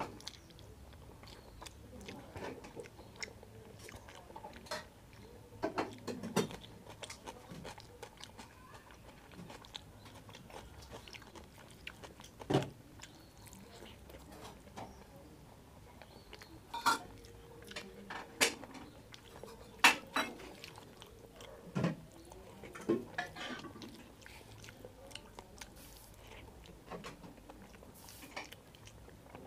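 Close-up eating sounds: chewing and lip smacking of rice mixed with dal, eaten by hand, with scattered sharp wet clicks at irregular intervals.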